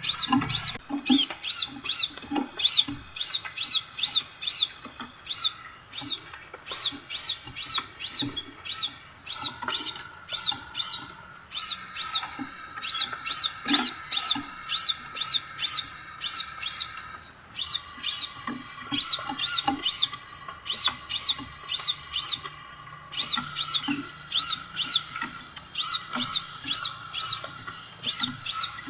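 Sepah raja (minivet) calling: a long series of short, high, downward-sliding whistled notes, about two to three a second, pausing briefly twice.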